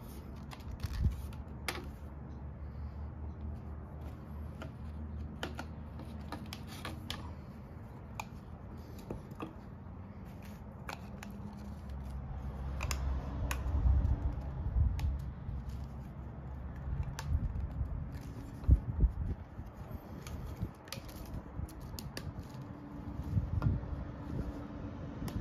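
Light clicks and knocks of 1-inch PVC pipe pieces and tee fittings being handled and fitted together over a low steady hum, with a few louder knocks in the middle and later on.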